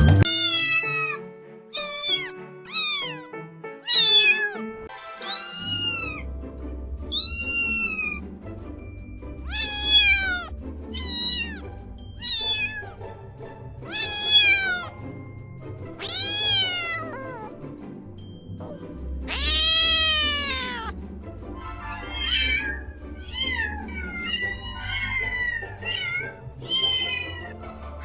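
Domestic cats meowing, one call after another about once a second, each meow rising then falling in pitch, with one longer meow about twenty seconds in. Background music with a low bass runs underneath from about five seconds in.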